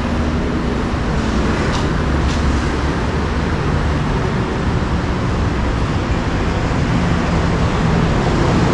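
Steady city street traffic noise, vehicles running past in a continuous rumble, with two faint clicks about two seconds in.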